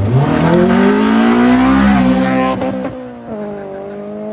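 Honda B16 four-cylinder engine in a Civic revving hard as the car launches. The pitch climbs steeply for about two seconds, drops about three seconds in, then climbs again more slowly.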